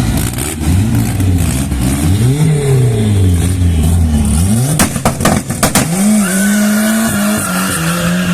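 Drag-racing car engine revving up and down, then a quick run of sharp cracks about five seconds in, after which the engine is held at a steady high rpm.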